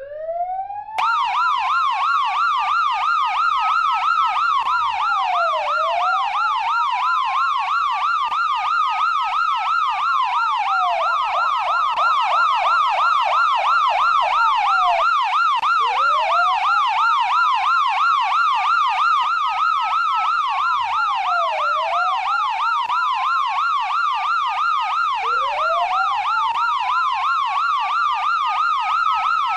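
British police siren (Kent Police) sounding a slow wail that climbs and falls every few seconds, with a fast yelp warbling over it from about a second in. The wail cuts out briefly about halfway and starts rising again.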